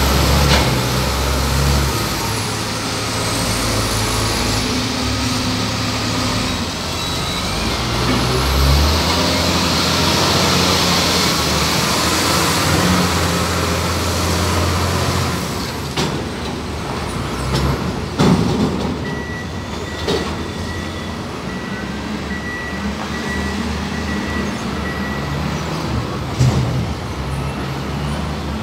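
Heavy diesel machinery at a container yard running steadily, with a loud air hiss through the first half. Several sharp clunks come in the second half, along with a faint high-pitched tone.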